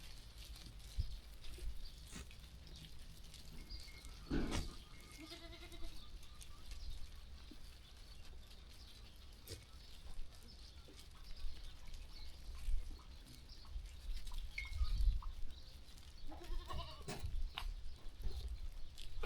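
Sheep bleating twice, once about four seconds in and again near the end, over a low rumble and scattered soft knocks.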